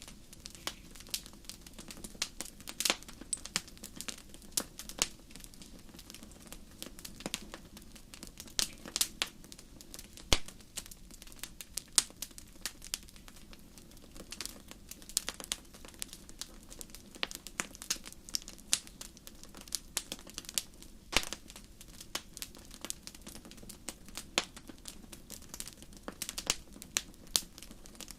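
Wood campfire crackling: irregular sharp pops and snaps, several a second, over a steady low rush of the burning fire.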